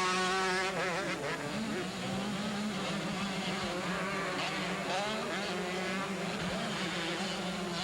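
Several two-stroke motocross bikes racing, their engines revving up and down. One bike is loudest in the first second, rising and falling quickly in pitch.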